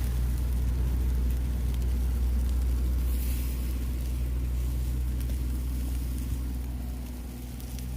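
A low, steady engine-like hum that eases off a little near the end, with faint scattered crackles.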